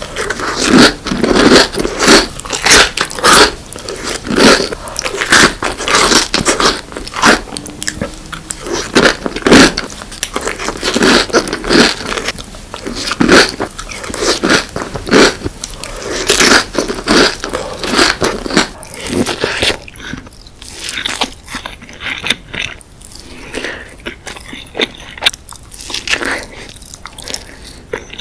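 Close-miked eating of desserts: a run of crisp, crunchy bites and chewing, irregular and loud. About two-thirds of the way through the sound turns duller and a little quieter, with softer chewing.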